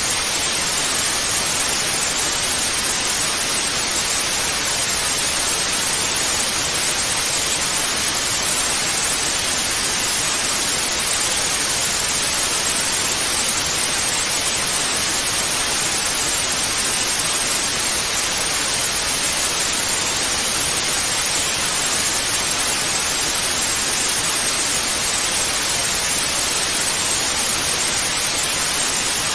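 Analog TV static: a steady, even hiss of white noise, brighter in the upper range, unchanging throughout.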